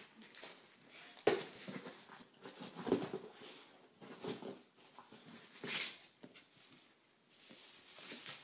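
Boxer puppy tearing and chewing at a taped, gift-wrapped box: irregular rustling, ripping of paper and cardboard, and scrabbling, with a sharp knock about a second in.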